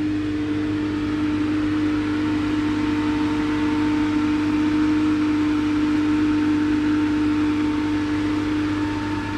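A machine running with a steady, unbroken hum built on a strong low tone.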